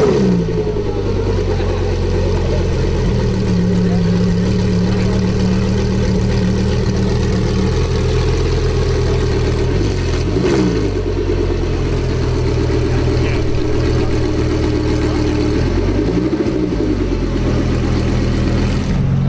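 Sports car engine settling from a rev into a steady idle, with two short throttle blips, about ten and sixteen seconds in.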